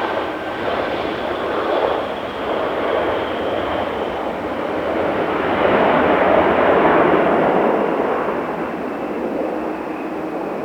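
Jet airliner's engines roaring on landing, the roar swelling about six seconds in and then easing, with a thin high whine slowly falling in pitch.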